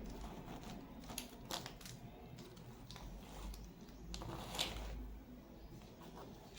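Faint, scattered plastic clicks and handling noise from work on a mechanical keyboard and its switches, a few sharper clicks standing out.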